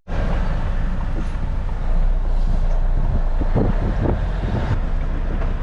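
Volvo HGV's diesel engine running steadily, a low rumble, with a short break right at the start.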